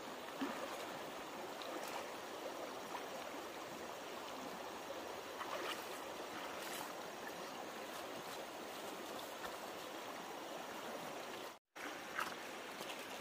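Flowing stream water, a steady rush with a few faint clicks; the sound cuts out abruptly for a moment near the end.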